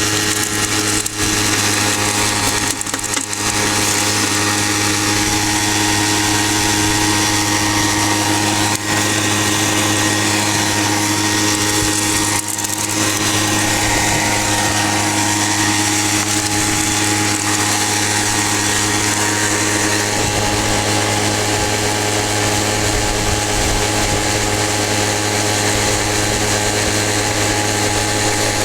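Gold prospector's dry washer running steadily, its small engine-driven blower holding a constant pitch while damp dirt is run through it, with a few brief dips in level.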